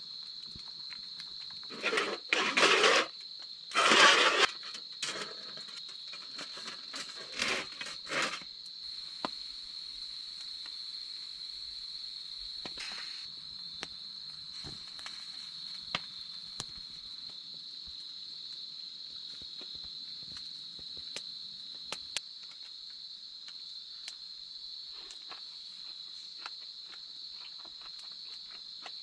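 Steady high-pitched chirring of an insect chorus, unbroken throughout. A few loud bursts of noise stand out over it in the first eight seconds.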